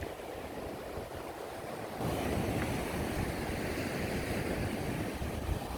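Ocean surf washing with wind on the microphone, stepping up louder about two seconds in.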